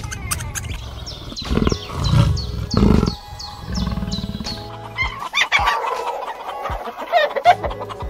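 Domestic poultry clucking and calling in the second half, with short pitched calls that bend up and down. Earlier, three loud low rumbling bursts and a run of evenly spaced high chirps play over background music.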